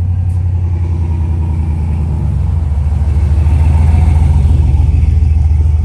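A car engine running with a loud, deep rumble. It grows louder over the first few seconds, peaks about four seconds in, and then eases slightly.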